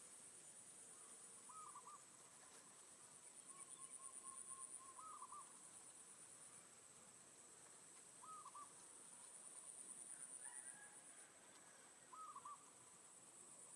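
Faint bird calls: a short two- or three-note call repeated four times, about every three to four seconds, over a steady high pulsing insect trill.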